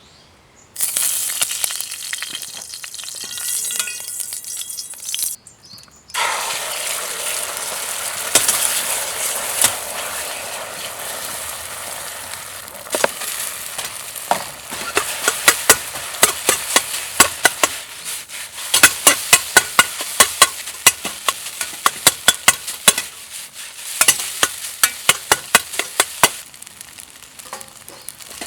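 Fried rice sizzling in a hot Chinese wok, starting about a second in, breaking off briefly near five seconds and then resuming. Through the second half a utensil knocks against the wok several times a second as the rice is stir-fried.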